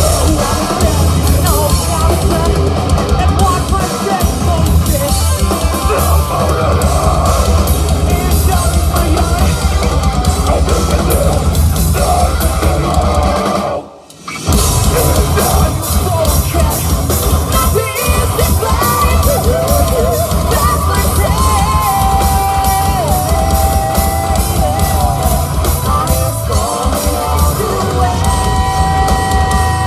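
Live rock band playing loud, with distorted guitars and drums. Midway the whole band stops dead for about half a second, then crashes back in.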